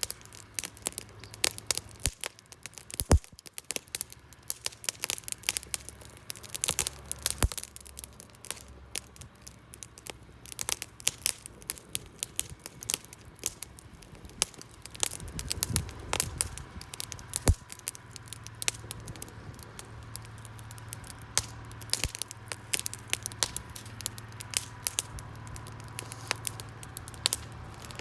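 Wood campfire crackling, with irregular sharp pops and snaps of burning wood. A low steady hum comes in past the middle.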